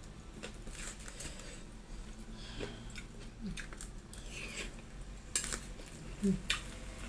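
Cutlery clinking and scraping on a plate while someone chews a mouthful of gado-gado, with a few sharper clinks near the end.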